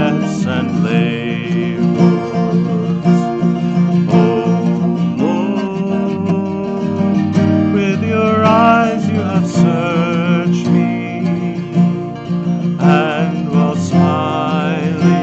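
A hymn sung to a strummed acoustic guitar: a singing voice with vibrato over steady guitar chords.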